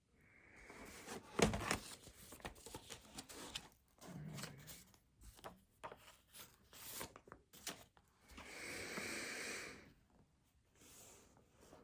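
Paper and desk handling: irregular rustling and light knocks, with a sharper knock about a second and a half in and a longer rustle or tearing sound for about two seconds near the end.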